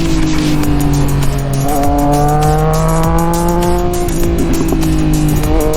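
Sport motorcycle engine heard on board while riding, with wind rush over it. Its pitch falls as the bike slows, climbs again as the rider accelerates, drops sharply about four seconds in and climbs once more.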